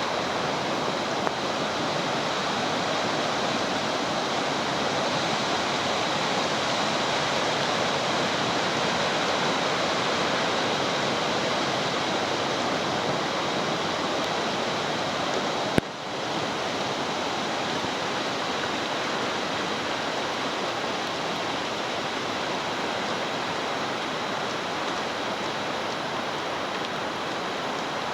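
Rushing water of a stream running steadily and loudly. A single sharp click comes about sixteen seconds in, with a brief dip in the sound.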